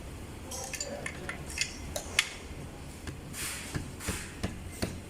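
Metal tools and small parts clinking and tapping during hands-on work on a scooter motor: irregular sharp clicks, about a dozen, the loudest about two seconds in, with a brief rustle midway.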